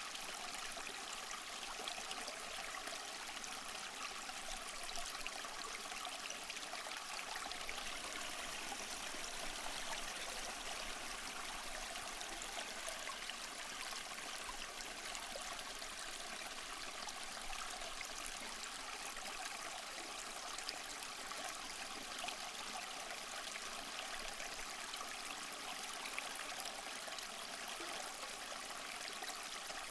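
Small waterfall splashing and trickling over mossy rocks, a steady, even rush of falling water with fine splashes.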